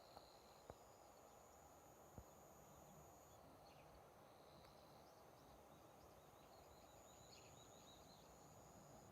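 Near silence: faint outdoor background noise with faint high chirps in the second half and a few soft clicks near the start.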